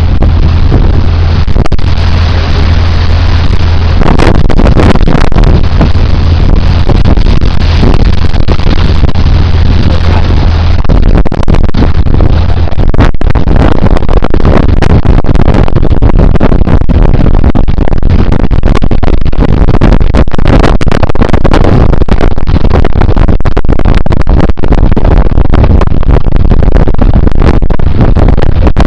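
Motorboat engine running steadily with a low hum and loud wind noise on the microphone; the hum fades out about eleven seconds in, leaving mostly wind and water noise.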